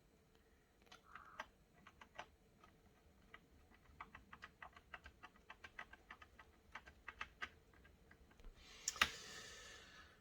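Faint, irregular light plastic clicks and taps from a laptop being handled, a few a second for several seconds, then a brief rustle with one sharper click near the end.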